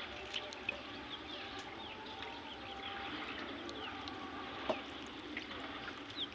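Birds chirping: many short, quick downward-sliding notes over a steady background hiss, with one sharp click a little before the end.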